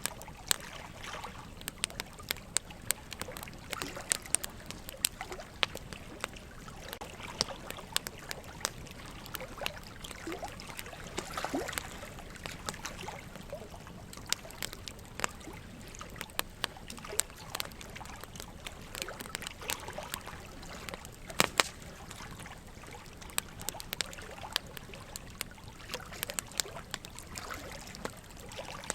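Wood fire crackling, with frequent sharp pops and snaps over a steady trickle of running water. A pair of louder pops comes about three-quarters of the way through.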